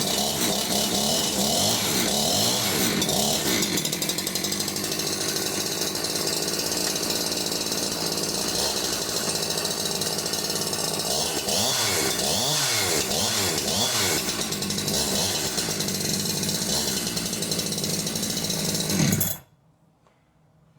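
Two-stroke engine of a freshly built G372XP kit chainsaw (a Husqvarna 372XP pattern saw) running with no bar or chain fitted, revved up and down several times, then shut off abruptly near the end.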